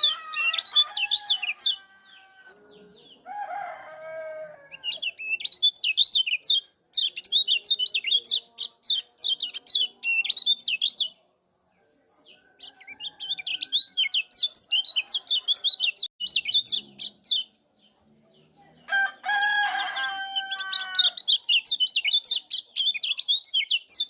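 Kecial kuning white-eye giving rapid, repeated high 'ciak' chip calls in runs of several seconds, broken by short pauses. Twice a lower, drawn-out call sounds underneath.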